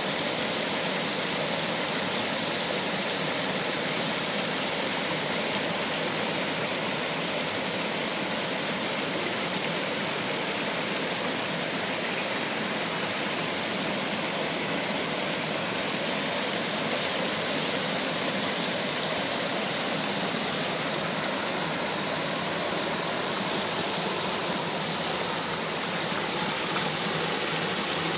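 Small waterfall and stream, water rushing and splashing in a steady, unbroken roar.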